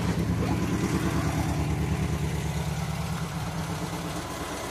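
Ford 2-litre V4 engine idling steadily just after a cold start. It has the unusual V4 note that comes from its balance shaft.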